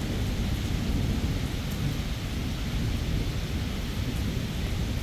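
Steady rain falling during a thunderstorm, under a low continuous rumble of rolling thunder.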